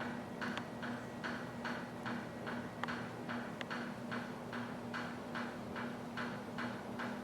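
Even, rhythmic ticking pulses, about two and a half a second, over a steady low hum.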